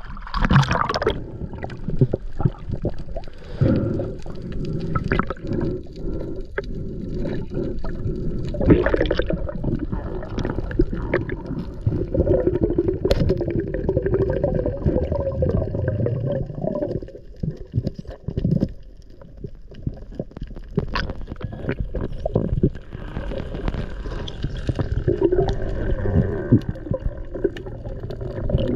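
Water gurgling and sloshing against a camera that is underwater or at the surface, a muffled rumble with scattered clicks and bubbling.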